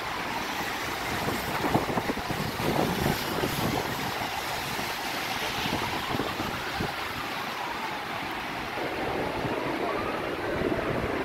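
Rain on a wet city square at night: a steady wash of rain and traffic hiss on wet roads, with wind buffeting the microphone in uneven gusts. A faint tone slowly rises and falls in pitch in the background.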